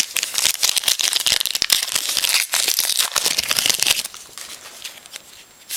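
A trading-card pack's wrapper being torn open and crinkled: dense crackling that dies down about four seconds in.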